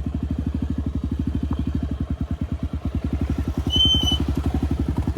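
Dirt-bike engine idling steadily, with an even beat of about a dozen pulses a second. A short high chirp sounds near the end.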